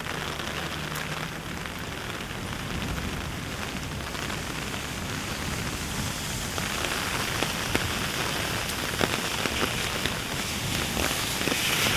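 Heavy rain falling steadily, with sharp drops ticking close by. It grows louder about halfway through.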